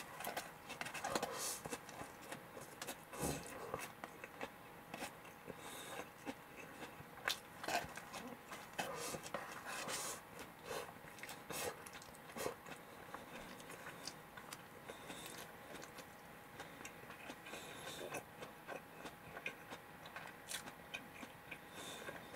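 A person chewing and biting a fried-chicken rice bowl, with a run of irregular small crunches, clicks and mouth smacks.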